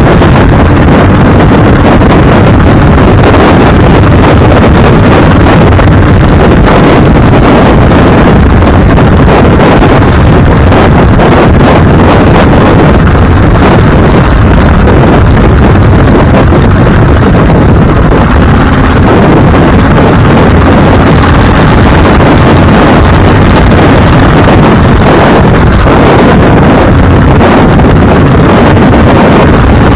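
Heavy wind buffeting on the microphone over the steady noise of a moving vehicle, loud and unbroken, so loud the recording sits at its ceiling throughout.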